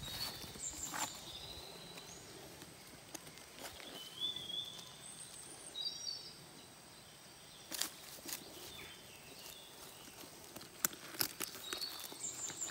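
Quiet outdoor ambience with scattered short, high bird chirps and a few sharp clicks and taps, most of them in the second half, from a latex collecting cup being handled at the foot of a rubber tree.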